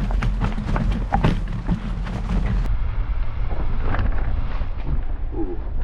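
Wind buffeting the microphone of a riding mountain bike, with a string of quick clicks and rattles from the bike running over rough trail, most of them in the first half.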